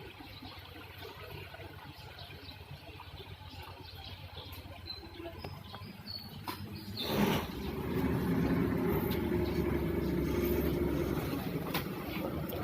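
Fast rescue boat's engine running as the boat comes alongside the mother ship, getting louder from about eight seconds in. A short loud rush of noise comes just before the rise.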